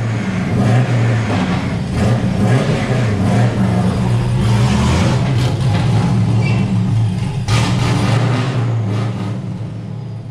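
Engine of a Nissan 240SX fitted with a TorqStorm supercharger, running loud and steady.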